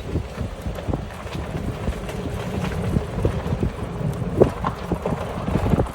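Wind rumbling on the microphone, with a steady low rumble and scattered light knocks and clatter, as from riding in or stopping a vehicle.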